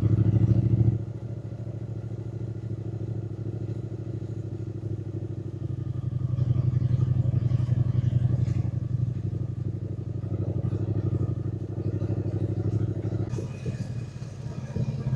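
Triumph Speed Twin 900's 900 cc parallel-twin engine running under way. The throttle is rolled off about a second in, the engine pulls harder again from about six seconds, and the note turns choppier near the end.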